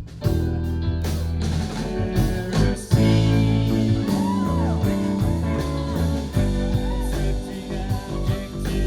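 Live rock band playing: guitar over bass and drums, with the lead notes bending up and down through the middle.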